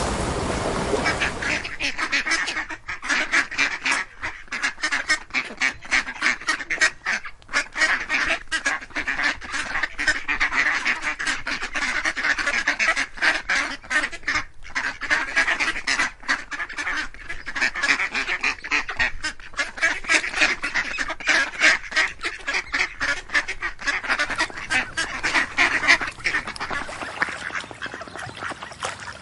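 A flock of ducks quacking, many short calls overlapping in a dense, continuous chatter. A low rumble fades out in the first second or so.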